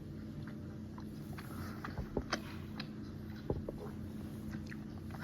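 Someone chewing Haribo gummy candy close to the microphone: soft sticky clicks and mouth smacks, a few louder ones about two and three and a half seconds in, over a steady low hum.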